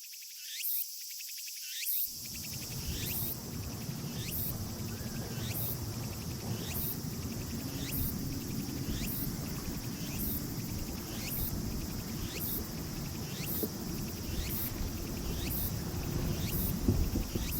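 Insects calling in late summer: a steady high trill with a short call repeating about once a second over it. A low, continuous rumble joins about two seconds in.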